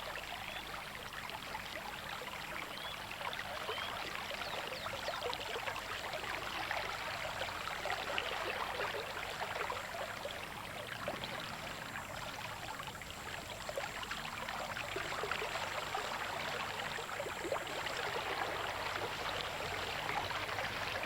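River water running and rippling, a steady fizzing wash of many small splashes.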